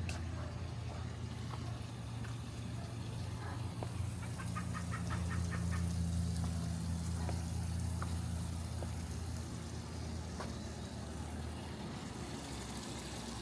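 Steady low machine hum, swelling slightly in the middle, with a short run of quick high pips, about five a second, a few seconds in.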